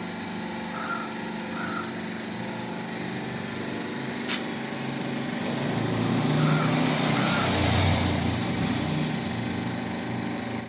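Hydraulic press running steadily as it presses a wet grinder's shaft into its new bearing, the hum growing louder and deeper about six seconds in, with one sharp click a little before the middle.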